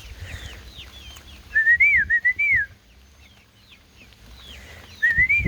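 A person whistling a short wavering call phrase twice, about three seconds apart, to call the chickens to their food. Faint, rapid peeping of young chickens runs underneath.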